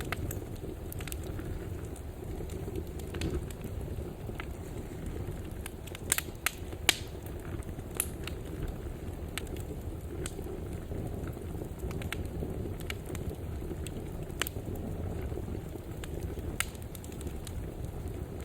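Wood fire burning in a fireplace: a steady low rush of flames with scattered sharp crackles and pops, a cluster of louder pops about six to seven seconds in.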